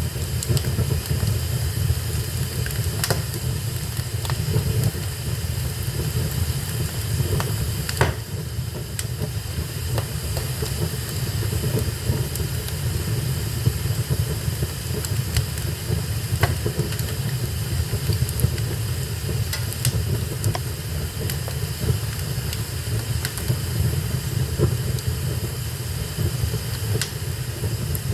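Fire burning in a fireplace: a steady low roar with scattered sharp crackles and pops, one of the loudest about eight seconds in.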